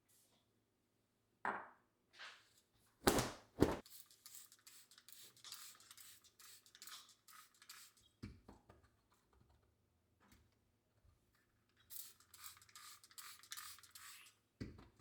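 Kitchen utensil sounds: a few sharp knocks, then two runs of quick scraping strokes, like a knife or fork working against a plate or pancake.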